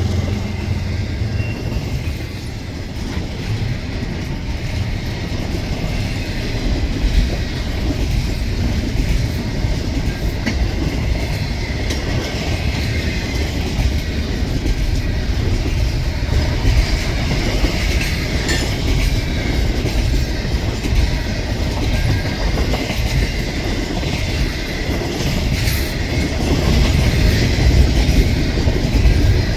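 Double-stack intermodal container cars of a long freight train rolling past at close range: a steady rumble of steel wheels on rail with continual clicking and clacking over the joints.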